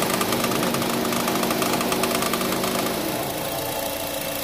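Honda City i-VTEC four-cylinder engine idling with a fast ticking rattle, which the mechanic puts down to a noisy belt tensioner. About three seconds in the idle speed drops lower and the ticking fades.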